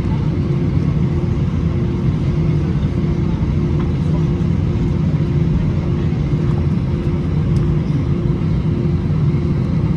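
Steady low rumble of an Airbus A320-214's cabin on the ground, with a constant mid-pitched hum running through it.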